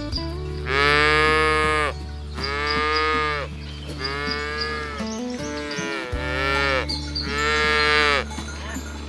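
Cattle mooing: four long calls in a row, each rising then falling in pitch, over a steady low hum.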